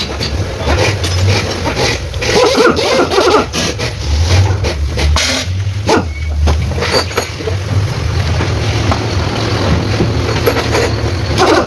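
Mitsubishi Pajero 4M40 four-cylinder diesel engine running steadily, with sharp irregular knocks over the steady running: the engine knock that calls for the overhaul.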